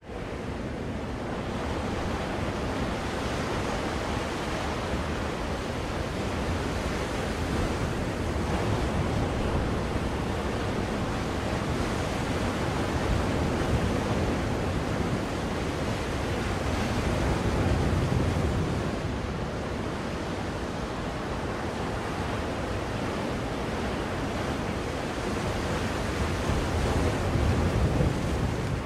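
Ocean waves breaking and washing on a shore, a steady rushing noise that swells and eases every few seconds, played as a white-noise track.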